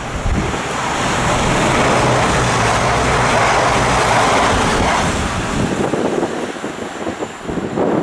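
CrossCountry Voyager diesel multiple unit passing through at speed: a rush of wheel and air noise over a steady low engine hum. It builds over the first second, is loudest in the middle and fades after about five seconds.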